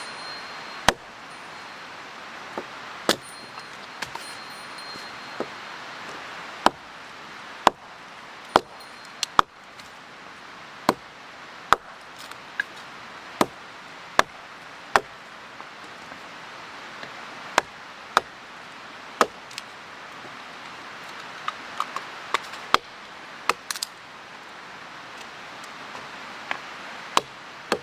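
Campfire burning, with irregular sharp wood pops and snaps, roughly one a second, over a steady hiss.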